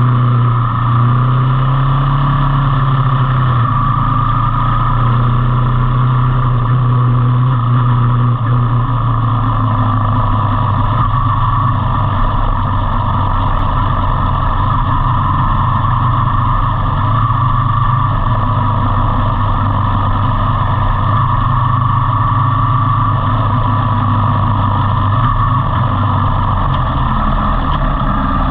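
Motor vehicle engine running steadily under way, a low continuous hum over steady road and wind noise; the engine note drops slightly about ten seconds in.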